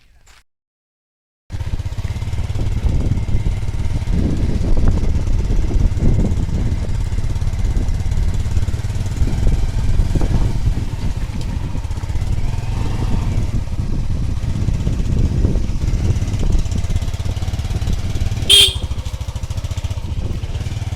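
A steady, loud low rumble like a running vehicle engine mixed with wind on the microphone. It starts abruptly after a second of silence, and a brief sharp high-pitched sound comes near the end.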